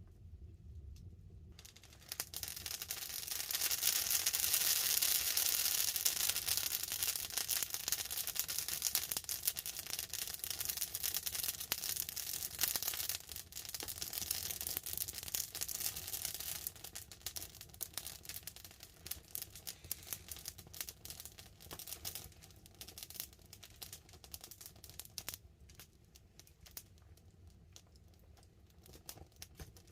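Wood campfire crackling and hissing: a dense run of small pops that swells suddenly about two seconds in, then slowly dies down toward the end.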